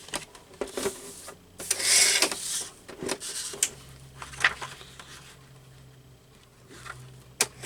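Sheet of patterned paper being cut down and handled: a longer rustling cut about two seconds in, shorter rustles, and scattered sharp clicks and taps. A faint steady low hum comes in about halfway through.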